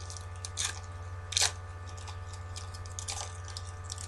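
Thin foil wrappers of Topps Opening Day baseball card packs crinkling as they are handled, with a few sharper crackles, the loudest about a second and a half in. A steady low mains hum runs underneath.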